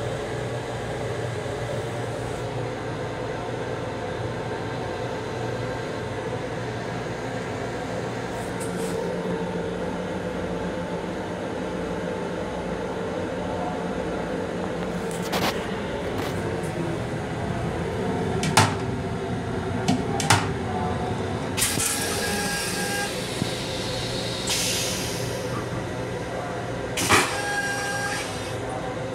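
Steady rumble and hum of a Long Island Rail Road M7 electric railcar running, heard inside its small restroom. In the second half come a few sharp clicks and knocks as the toilet lid is handled, plus short patches of hiss.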